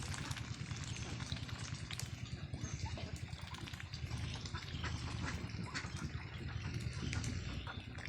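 A flock of ducks chattering and calling, with scattered clicks and water sounds.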